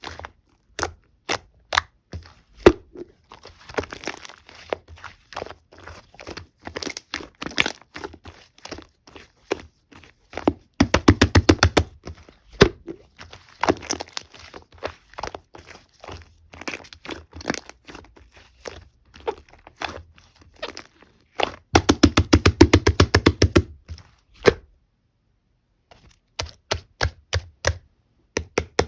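Slime with soft clay mixed in being squished and pressed by hand, giving sticky clicks and pops, with two stretches of fast crackling pops about eleven seconds in and again about twenty-two seconds in.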